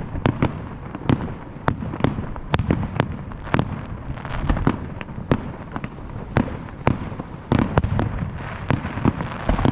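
Fireworks display: a rapid, irregular barrage of aerial shell bursts, several bangs a second, over continuous crackling.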